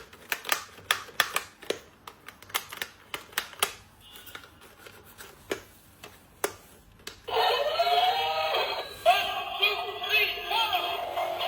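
Irregular sharp plastic clicks and taps from a small toy being handled. About seven seconds in, a high-pitched electronic sung tune starts up and keeps playing.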